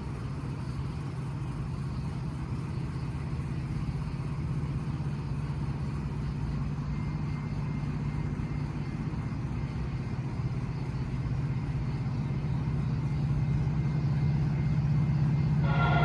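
Diesel locomotive engine drone growing steadily louder as a train approaches, with the locomotive's horn starting to sound right at the end.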